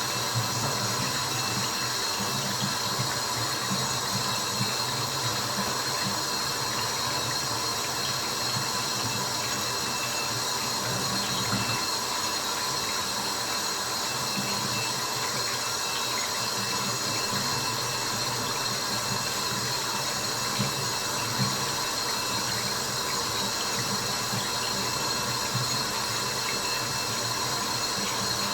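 Continuous trickling and dripping water sound with a steady hiss, played as white noise for sleep, with faint steady tones and a few small clicks through it.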